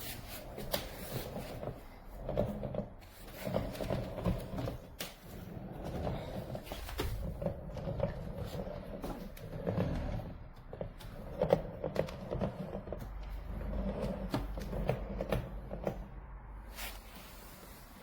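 Irregular knocks, clicks and rattles, as of things being handled and shifted about, over a steady low rumble.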